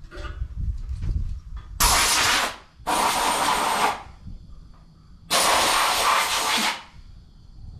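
Three loud bursts of hissing air, each about a second long with a faint falling whistle in it; the third is the longest.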